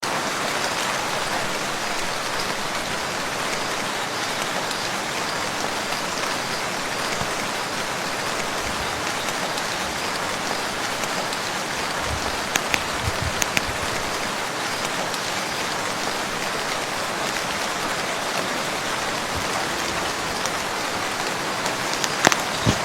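Steady rain falling on a lake, an even hiss of drops, with a few sharper taps about halfway through and again near the end.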